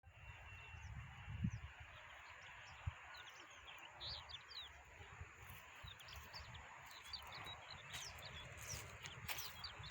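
Faint evening outdoor ambience: birds chirping in many short, quick calls over a steady hiss and a low rumble, with two brief knocks in the first few seconds.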